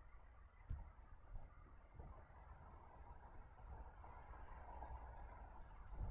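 Faint birdsong: small birds chirping and twittering over a low rumble, in an otherwise near-silent open-air pause.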